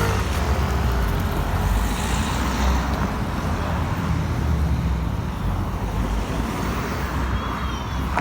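Road traffic noise: a steady rumble with hiss.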